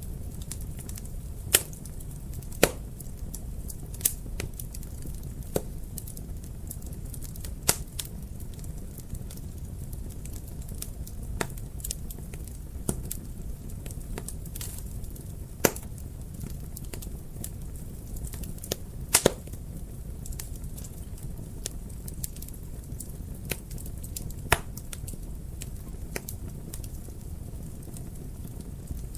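Wood fire burning in a fireplace, crackling with sharp, irregular pops over a steady low rumble of the flames.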